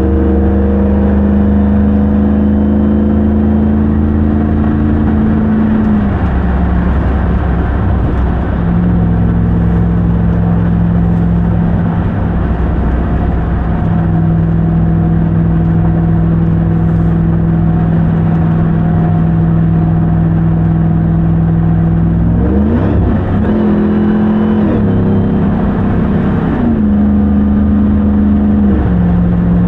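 2021 Ram 1500 TRX's supercharged 6.2-litre Hemi V8 running steadily under way. Its note steps down in pitch about six seconds in, wavers and rises a little past the two-thirds mark, then steps down again near the end, as with gear changes.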